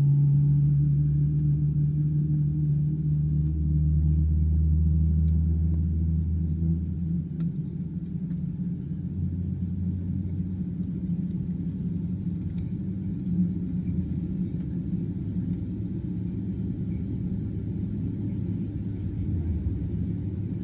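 Boeing 777-200ER jet engine starting, heard from inside the cabin: a steady low rumble with a hum over it. It comes in suddenly and is loudest for the first several seconds, then eases to a lower, even drone as the engine settles.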